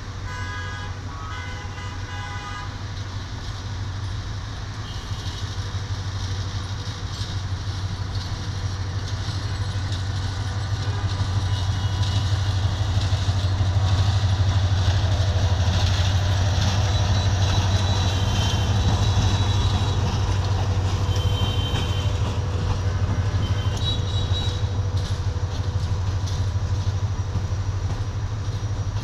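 Diesel locomotive hauling a passenger train slowly past: a steady low engine drone that grows louder as the locomotive draws level about halfway through, then the run of the coaches rolling by. A horn blast dies away in the first couple of seconds, and short high-pitched squeals come and go while the train passes.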